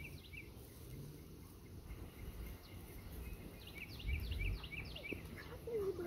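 A songbird singing: quick runs of repeated down-slurred chirps, one at the start and another a couple of seconds later. A brief low rumble comes about four seconds in.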